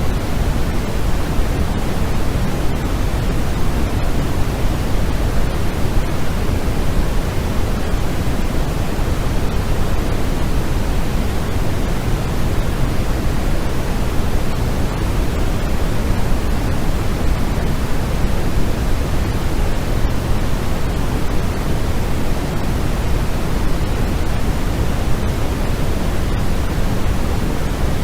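Steady, unbroken noise of a white-noise sleep track, even and without any events, heavier in the low end than in the treble, so it sounds deeper than pure hiss.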